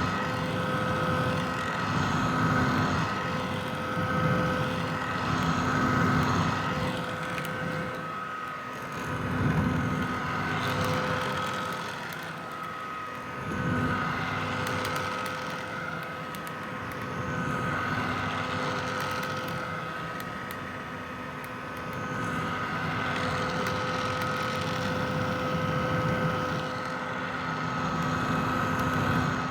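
Red vintage hair dryer running: a steady fan whoosh with a held motor whine, swelling and fading in loudness every few seconds.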